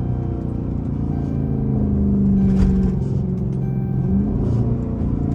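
Low rumble of a Chrysler 300's 5.7 Hemi V8 as the car creeps along at low speed, with music playing underneath.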